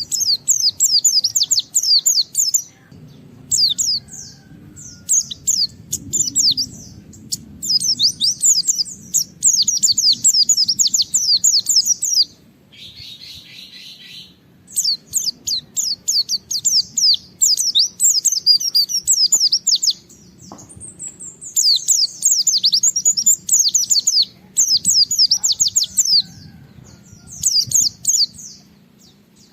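White-eye (pleci) singing in loud, rapid, high twittering bursts of one to three seconds, separated by short pauses. A short, lower buzzy call comes about halfway through.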